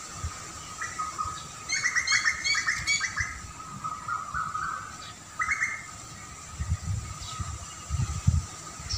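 Songbirds chirping: a quick run of short chirps about two seconds in and a shorter burst near the middle, over a faint steady tone. Low rumbles come in near the end.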